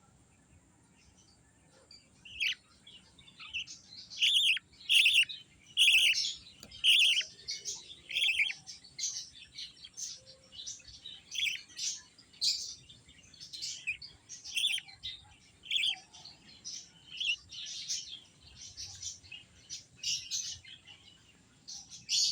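Baby bird chirping: short, high chirps repeated about once or twice a second, starting a couple of seconds in.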